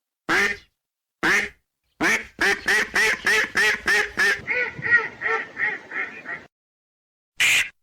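Duck quacking: two single quacks, then a fast run of about three quacks a second lasting some four seconds that turns fainter halfway through, and one more quack near the end.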